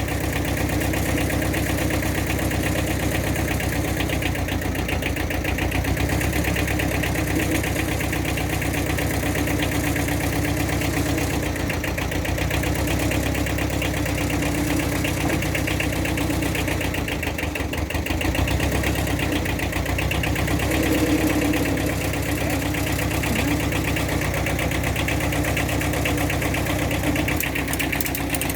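Kubota TD15S mini dozer's engine running steadily at idle with an even, unchanging beat.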